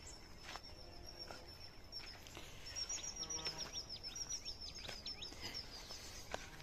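Songbirds chirping. A thin, high whistle is held for about two seconds, then a quick run of short falling notes, several a second, follows in the middle.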